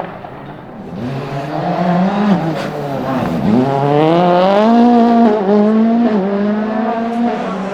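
A World Rally Car engine accelerating hard, its pitch climbing. About three seconds in it drops sharply on a lift or shift, then climbs steeply again and holds high, with short dips at the upshifts.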